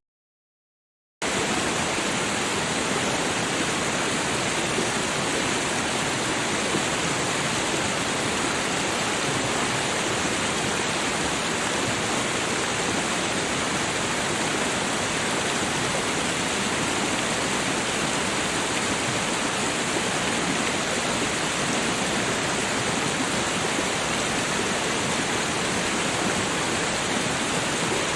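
Steady rushing of a babbling creek, an even water noise that starts abruptly after about a second of silence.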